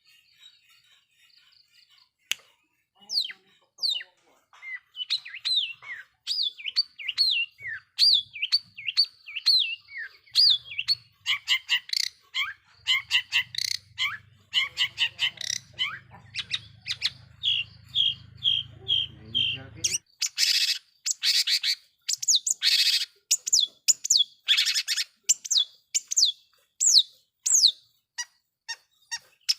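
Long-tailed shrike (cendet) singing a fast, varied song of chirps, trills and short whistled glides, breaking into loud, harsh rasping calls about twenty seconds in. A low hum runs underneath for several seconds in the middle.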